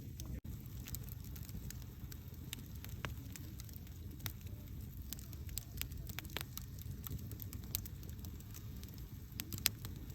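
Wood campfire burning: a steady low rush of flames with frequent irregular crackles and sharp pops, one louder pop near the end.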